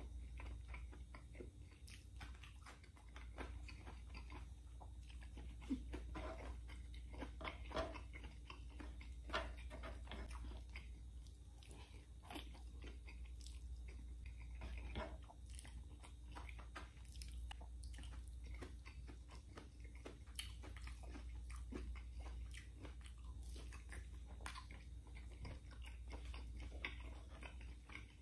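A man chewing and biting mouthfuls of pork adobo and rice eaten by hand, with irregular crunchy bites and wet mouth clicks, over a steady low hum.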